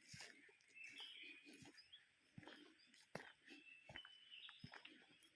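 Faint footsteps on a forest path, a handful of sharp crackles a second or so apart, with short, thin bird chirps in the background.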